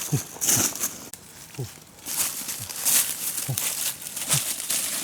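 An animal giving short, low grunts, each sliding down in pitch, about one or two a second, amid rustling and crinkling noise.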